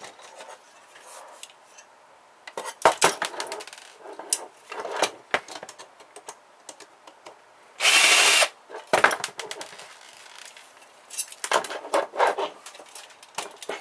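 Small printer being taken apart by hand: scattered clicks and clatters of plastic and metal parts being handled and pried. About eight seconds in, a power driver runs once, briefly.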